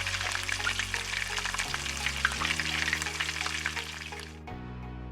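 Chopped onion and garlic sizzling in hot oil in a frying pan, with some stirring; the sizzling stops about four seconds in. Soft background music plays underneath.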